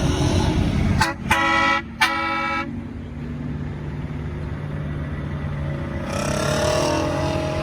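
Truck horn sounded in a few short blasts about a second in, over the steady low running of a diesel engine. Near the end an engine note rises as a vehicle accelerates.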